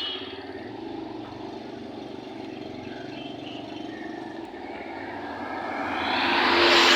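A 12-volt washing machine's motor running with a steady, finely pulsing hum. A sharp click comes right at the start, and a louder whooshing noise swells up near the end and then begins to fade.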